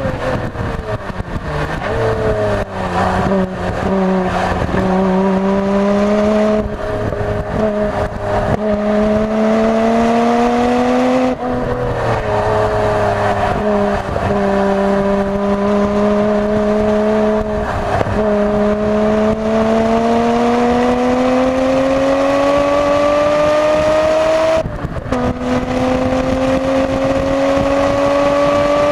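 Nissan Skyline GT-R R33's twin-turbo RB26DETT straight-six, fitted with N1 turbos, driven hard on a race circuit. The engine note falls over the first few seconds as the car slows, then climbs steadily under acceleration. It is broken by two upshifts, about a third of the way in and again near the end, where the pitch drops and starts climbing again.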